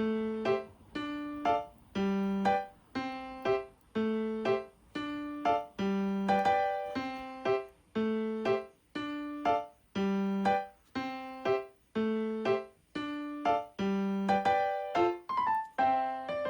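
Background piano music: a gentle repeating pattern of notes at about one beat a second.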